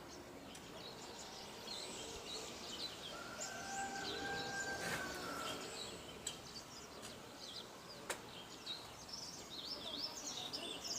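Small songbirds chirping over steady outdoor background noise. A faint held tone sounds for about two seconds near the middle, and there is a single sharp click near the end.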